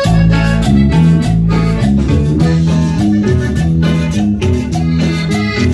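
Norteño band music starting abruptly on cue: a bass line bouncing between two notes, strummed guitar and steady drum beats.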